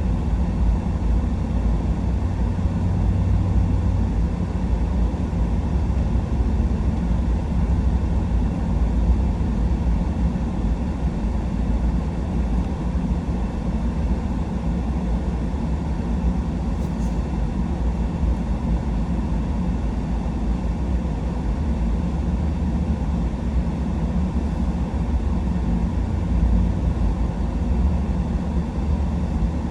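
Pickup truck driving, heard from inside the cab: a steady low rumble of engine and tyre road noise.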